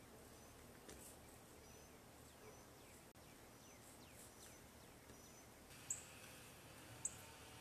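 Near silence with faint bird chirps: a few thin falling calls, then sharper short high chirps about once a second near the end.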